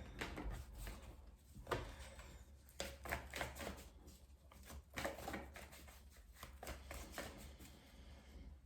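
Tarot cards being handled and laid down on a surface: a scattered run of faint, short clicks and slaps.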